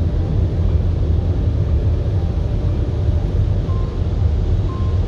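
Steady low rumble of a car's engine and road noise heard from inside the cabin while driving. From a little past halfway, a short faint beep repeats about once a second.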